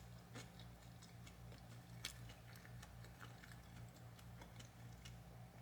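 Near silence: a low steady hum with faint, irregular clicks scattered through it.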